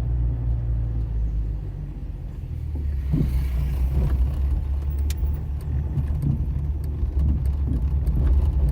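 A car driving, with a steady low engine and road rumble. A short lull comes about two seconds in, and scattered light knocks and rattles follow in the second half.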